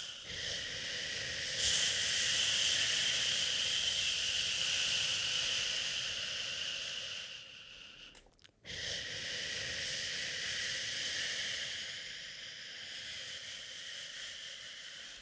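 A person shushing to soothe a baby: a long, steady "shhh" held for about eight seconds, a short break for breath, then another long "shhh" that tapers off near the end.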